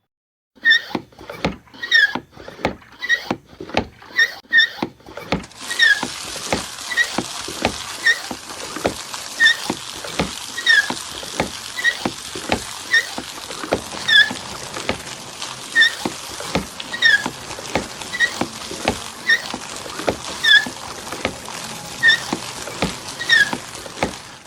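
Hand water pump being worked: a clank about twice a second, with a short squeak on many of the strokes. About five seconds in, a steady rush of water starts and runs on under the strokes.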